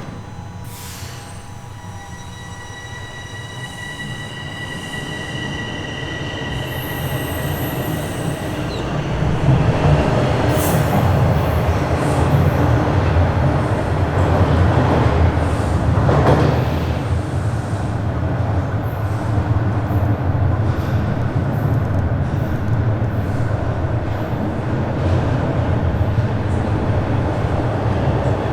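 Bombardier Toronto Rocket subway train pulling away: its electric traction motors give several steady high tones while the noise builds. About nine seconds in, a loud rumble of the wheels on the rails takes over, and a short wheel squeal comes at around sixteen seconds.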